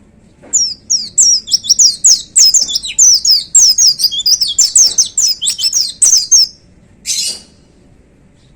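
Pleci (white-eye) singing a fast, continuous run of high, downward-slurred notes for about six seconds, then one short harsh rasping note about a second after the run ends.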